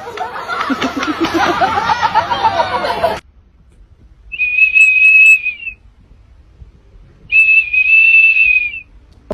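A busy jumble of overlapping rising and falling tones that cuts off abruptly about three seconds in. Then two long, steady, high whistles follow, each about a second and a half long, with a pause of about a second and a half between them.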